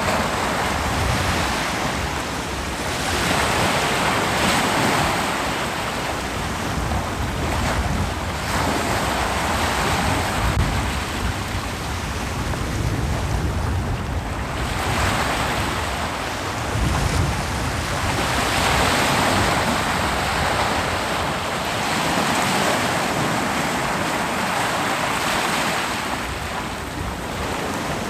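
Ocean waves breaking and washing up a beach, the surf swelling and easing every few seconds over a low rumble, with some wind buffeting the microphone.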